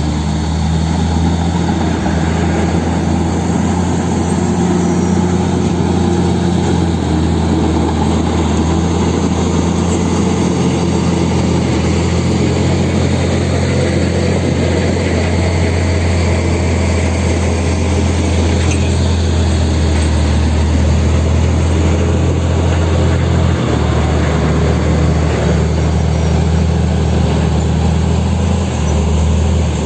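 Heavy diesel engine running steadily at a low, even pitch, with a slight change in its note about two-thirds of the way through and again near the end.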